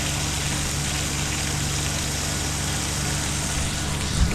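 Steady rush of water running out of an open boiler drain as the well pump pushes water through the new plumbing, over a steady low hum.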